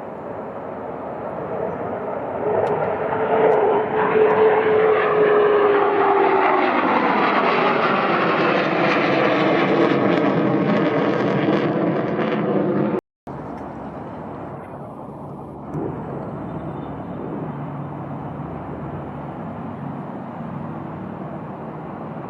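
Fighter jet flying past: its engine roar builds over the first few seconds and stays loud, with a whine that falls in pitch as the jet goes by. About thirteen seconds in the sound cuts off abruptly, then a quieter, steady jet rumble carries on.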